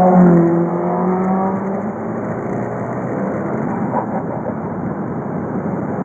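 VW Golf V's 2.0 TDI four-cylinder turbodiesel (BKD) under way: the engine note is loudest at the start and drops in pitch over about two seconds as the revs fall, then settles into a steady driving drone.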